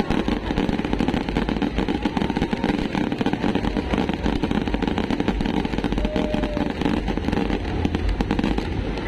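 A dense, continuous fireworks barrage: rapid crackling over a steady low rumble.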